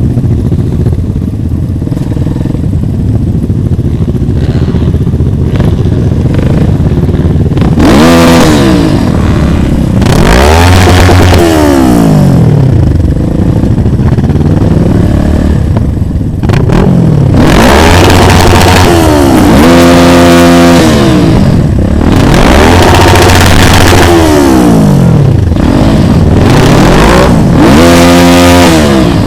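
A motorcycle engine runs steadily for several seconds. It then revs up and drops again over and over as the bike accelerates and shifts gears.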